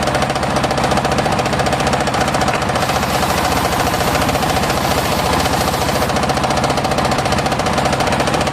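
Homemade engine-driven circular sawmill running while sawing mahogany: a fast, even engine beat under a steady whine, with no break or change in load.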